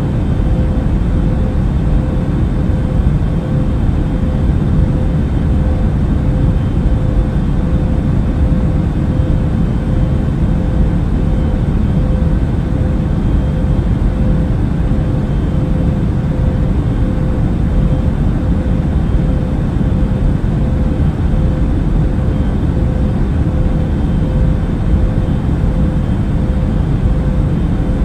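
Steady airplane cabin noise in flight: an even low rumble with a constant hum over it.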